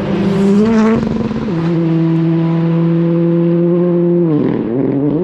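Ford Fiesta R5 rally car's turbocharged four-cylinder engine running at high revs. Its pitch climbs, drops sharply about one and a half seconds in, and holds steady for a few seconds, then dips and rises again near the end.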